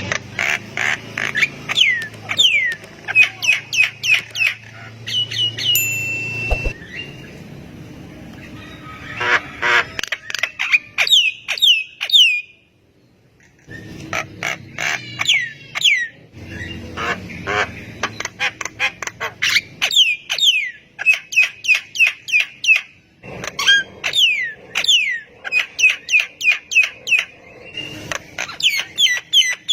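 Javan myna calling: rapid series of sharp down-slurred whistles mixed with harsh chattering notes, delivered in bursts, with one held whistle about five seconds in and a brief pause near the middle.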